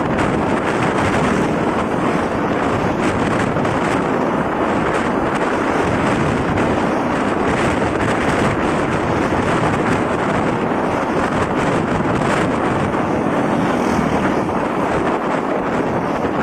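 Steady wind rushing over the camera microphone of a moving motorcycle, with the noise of the bike and surrounding road traffic mixed in.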